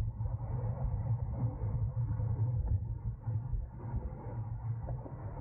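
Wind rushing over the microphone of a camera on a racing bicycle ridden at race speed, heard as a steady low rumble.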